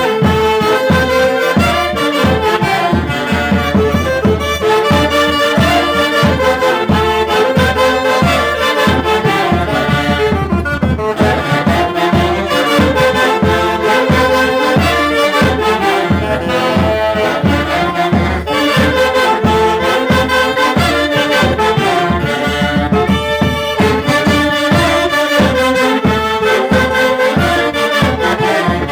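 Mantaro-valley orquesta típica playing traditional music: wind instruments carry the melody in several lines over a steady beat.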